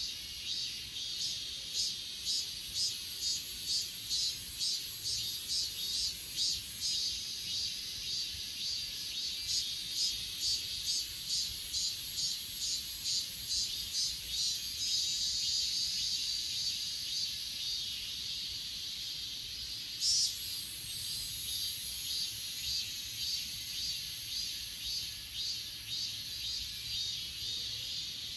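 Grass insects (crickets and katydids) calling in a steady high-pitched chorus. For the first ten seconds or so one insect pulses rhythmically at about two to three pulses a second. About two-thirds of the way through, a louder, very high buzz starts suddenly and carries on.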